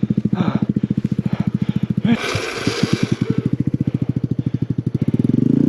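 Motorcycle engine running at low revs with a slow, even beat, lugging in third gear, with a brief hiss about two seconds in. Near the end the engine revs up and its pitch rises and falls.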